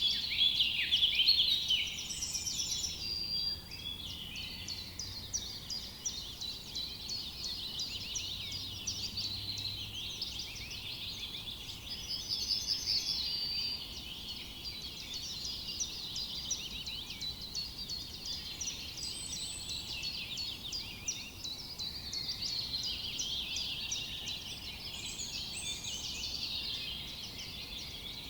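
A chorus of several songbirds singing in a forest: dense, overlapping high chirps and quick trills, loudest in the first couple of seconds.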